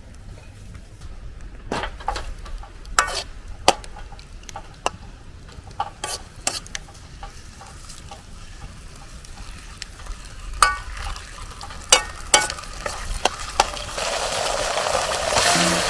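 Wok cooking: a metal utensil clacks and scrapes against the wok in scattered, irregular knocks. About fourteen seconds in, a loud sizzle starts and keeps going.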